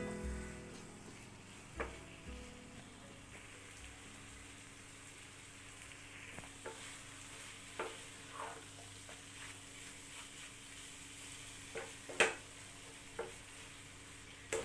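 Food sizzling quietly in oil in a cooking pan while it is stirred, with a few short knocks of the spoon against the pan, the loudest near the end.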